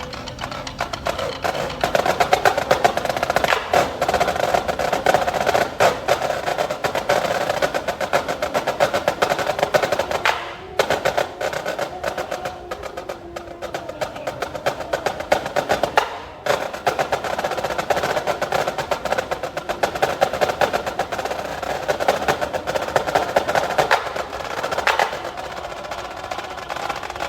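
Marching band music driven by fast, dense snare-drum strokes, with two brief breaks about ten and sixteen seconds in.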